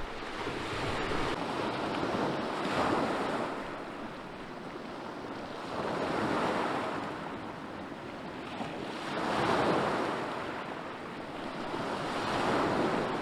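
Sea waves washing onto a beach, the rush of surf swelling and fading about every three seconds.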